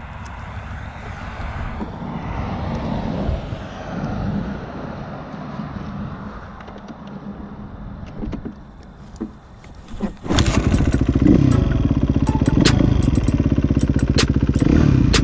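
Kawasaki KX250 dirt bike engine starting about ten seconds in and then running loudly with a rapid, even beat, after two short knocks. Before it there is only softer rumbling noise.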